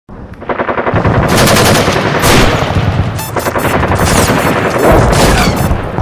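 Machine-gun fire sound effect: loud, rapid bursts of automatic fire with a couple of short breaks between them.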